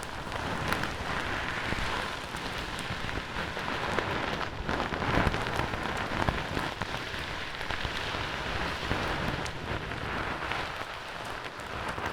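Fingers rubbing and scratching a furry microphone windscreen close to the microphone: a continuous crackling rustle full of fine ticks, rather like rain on a surface.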